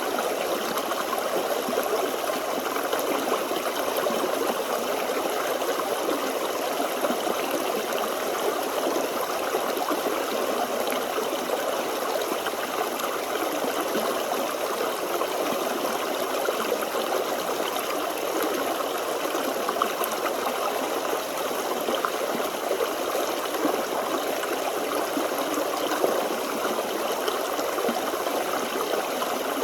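Forest stream running over rocks: a steady, even rush and trickle of water with no breaks.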